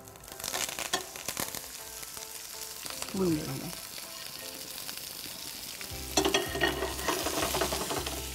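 Stuffed okra sizzling as it is dropped by hand and tipped from a plate into a frying pan of hot ghee with crackled mustard seeds, with scattered crackles among the sizzle. The sizzle picks up about half a second in and grows louder again around six seconds.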